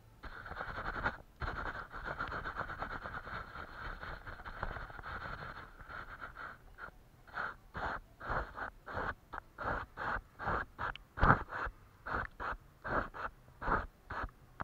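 A paintbrush scrubbing on paper: several seconds of steady rubbing, then a run of short separate strokes about two a second.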